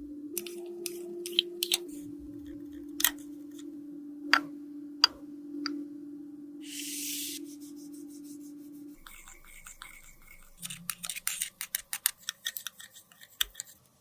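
A small electric appliance hums steadily under scattered sharp clicks of tools on makeup, with a short hiss about seven seconds in. The hum stops about nine seconds in, and a quick run of crisp clicks and snips follows.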